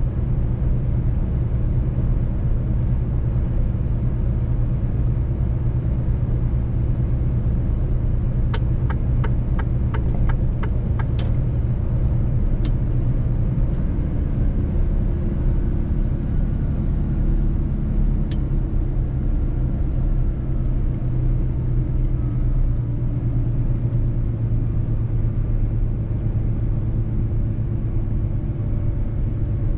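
Mercedes-Benz truck driving on the road: a steady low engine drone and rumble, with a short run of quick light clicks about nine seconds in.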